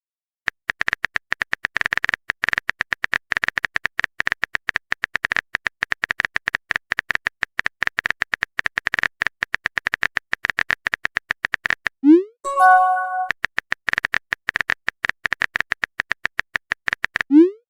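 Rapid phone-keyboard typing clicks, as in a simulated text chat, broken about twelve seconds in by a short rising swoosh and a brief multi-tone chime of a message being sent. The typing then resumes and ends with another swoosh and chime.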